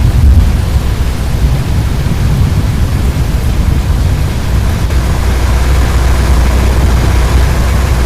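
Strong wind blowing: a loud, steady low rumble with a hiss over it, growing a little heavier in the bass over the last few seconds.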